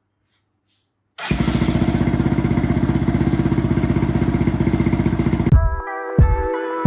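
Dirt bike's single-cylinder engine starts sounding about a second in and runs with an even, fast pulsing beat, then cuts off sharply near the end. Intro music with a steady beat takes over from there.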